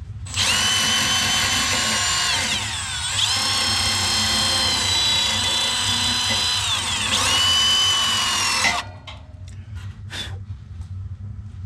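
Power drill running for about eight seconds, a high whine that sags in pitch twice as it bogs under load and picks back up, then stops abruptly; a few light clicks follow.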